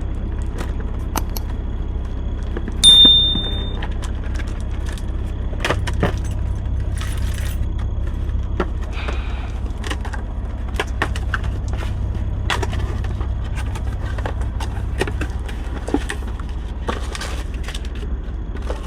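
Clicks, knocks and clatter of things being handled over a steady low hum in the semi truck's cab, with one high electronic beep about three seconds in.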